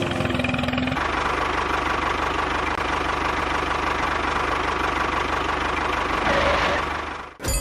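Small engine running steadily with a fast, even chugging. It comes in about a second in and cuts off abruptly near the end.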